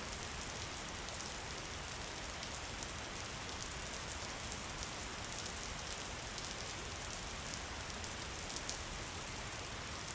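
Steady rain falling, a continuous even hiss dotted with many small drop ticks.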